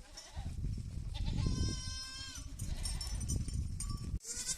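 A goat bleating: one long, steady bleat in the middle and a short faint call near the end, over low rumbling background noise.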